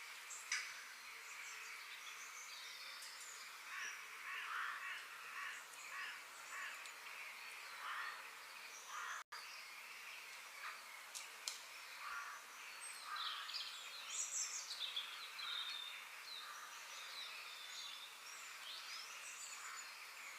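Several birds chirping and calling outdoors: many short chirps and trills overlapping over a steady background hiss, with a momentary dropout about nine seconds in.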